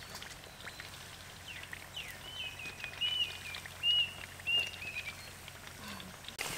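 A bird calling a string of short whistled notes, over faint crackling of chicken frying in a wok of oil.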